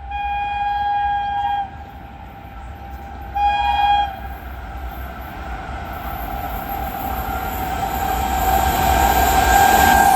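Indian express train's locomotive horn sounding a blast of under two seconds and then a short one, followed by the train approaching at speed: rail and wheel noise builds steadily with the horn held as it nears.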